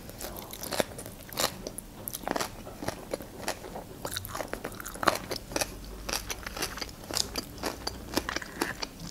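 Close-miked chewing of crunchy Korean-style shredded carrot salad: a stream of irregular wet crunches, several a second.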